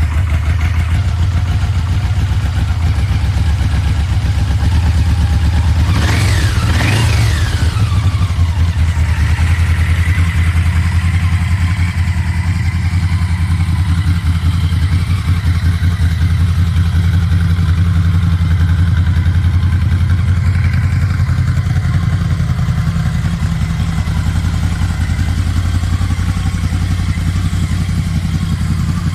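Yamaha VMAX motorcycle's V4 engine idling steadily through its exhaust, with two quick throttle blips a few seconds in, the pitch shooting up and falling back each time before it settles to idle again.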